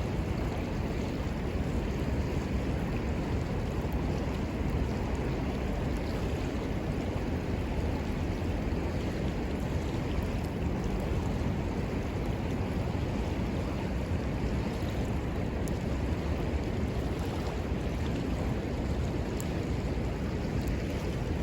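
Steady rushing of a river flowing past, with a few faint crackles from a small wood fire.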